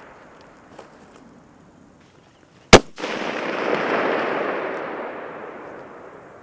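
A single rifle shot about three seconds in, a sharp crack followed by a long rolling echo that swells and then fades over the next few seconds.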